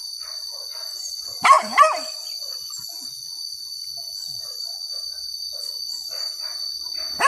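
Hunting dogs barking during a wild boar hunt: two loud barks about a second and a half in, fainter barking in between, and a quick run of loud barks at the very end. A steady high-pitched insect drone runs underneath.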